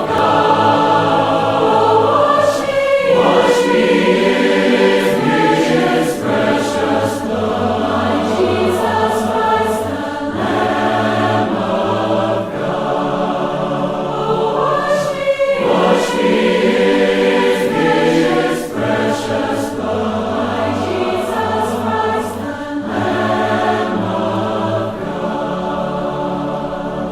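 A choir singing a hymn, many voices holding and moving between sustained notes.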